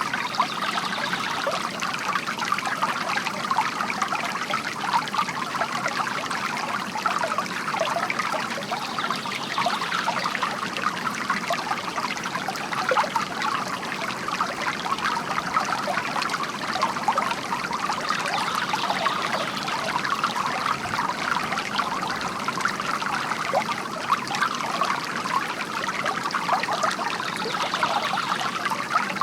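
Water from a bamboo fountain spout trickling and splashing steadily into a basin.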